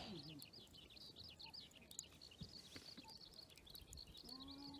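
Faint, continuous high-pitched chirping, many quick notes in a dense chorus, with a few soft clicks here and there.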